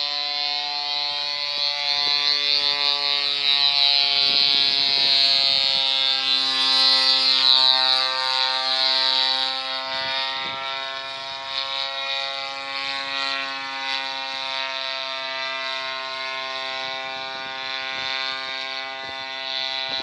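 Two-stroke grass-cutter engine of a homemade fixed-wing model plane running loud in flight, a buzzing drone whose pitch slowly sinks and rises again as it flies.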